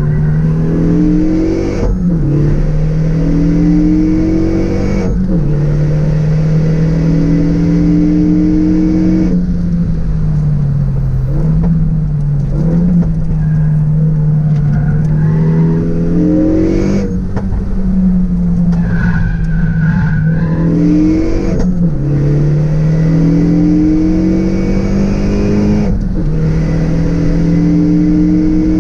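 Renault Megane RS 265's turbocharged 2.0-litre four-cylinder engine driven hard, revving up through the gears. The pitch climbs steadily, then drops abruptly at each upshift, six times, with a spell of lifting and re-accelerating about a third of the way in.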